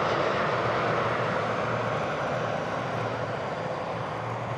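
Business jet engines rushing steadily, slowly fading away.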